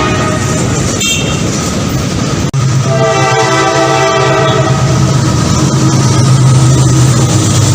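Train horn sounding over a passing train. The sound breaks off abruptly about two and a half seconds in, then a horn sounds again for several seconds over a steady low locomotive engine hum.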